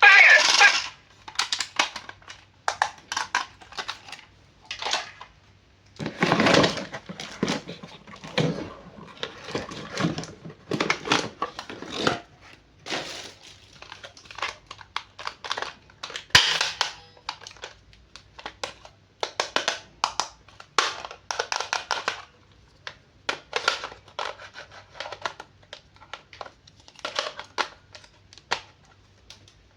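Toy packaging crinkling and rustling in irregular bursts as it is handled and opened.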